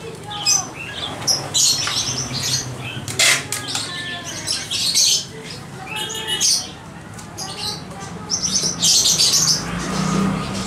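Caged oriental magpie-robins (kacer) chirping and calling in many short, overlapping bursts of high notes, with a brief sharp rattle about three seconds in.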